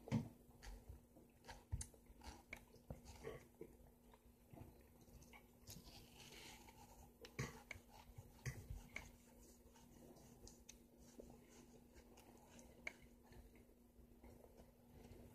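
Faint eating sounds of ripe yellow honeydew melon: soft, irregular wet clicks and smacks of biting and chewing the juicy flesh.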